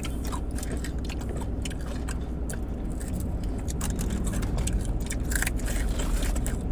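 Close-up crunchy chewing and biting of raw carrot: many short, sharp crunches over a steady low hum.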